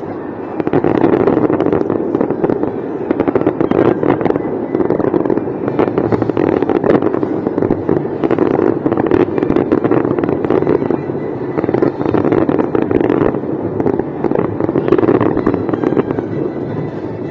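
Fireworks display going off in a dense, continuous barrage of overlapping bangs and crackles, with no pause.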